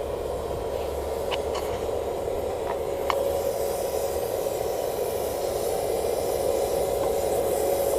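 Blower-fed charcoal furnace running: a steady hiss of forced air and fire with a steady hum, and a few faint ticks in the first few seconds.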